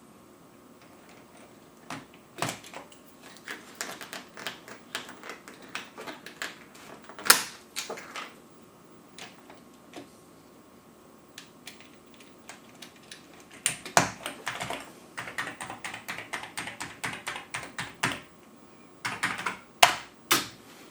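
Plastic keycaps clicking and clacking on an Amiga keyboard as keys are fitted and pressed, in irregular runs of quick clicks with quiet gaps between; one sharp clack about seven seconds in is the loudest.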